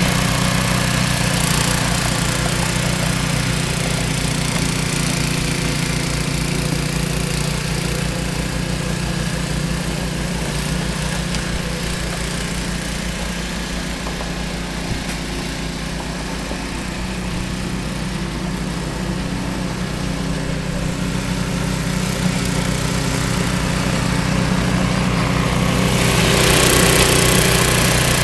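Small gasoline snowblower engine running steadily, dipping a little in the middle and growing louder near the end.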